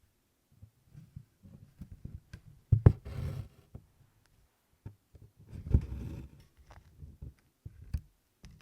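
Needle pricking through 24-count canvas and cotton floss being drawn through in tent stitches. Scattered soft taps and brief rustling pulls, the loudest about three and six seconds in.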